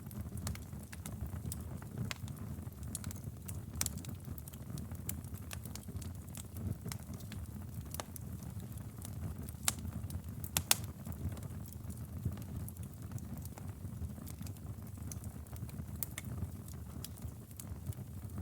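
Wood fire burning in a fireplace: a steady low rumble of flames with irregular sharp crackles and pops, the loudest couple of pops about ten seconds in.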